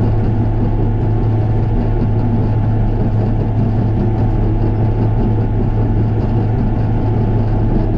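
A heavy diesel engine running steadily at a constant speed, a continuous low hum.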